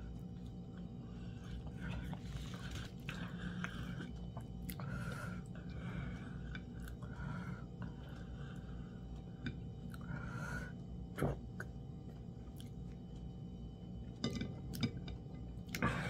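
Close-up eating sounds: a person chewing and smacking on fufu and soup eaten by hand, with a few sharp clicks later on.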